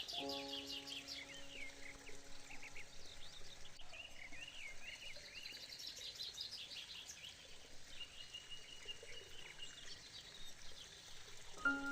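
Small birds chirping and trilling: many short, high calls throughout. A soft held music chord fades out over the first few seconds, and music notes start again near the end.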